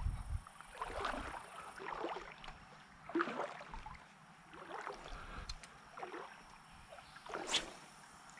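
Shallow creek water sloshing and splashing in soft, irregular swishes roughly once a second.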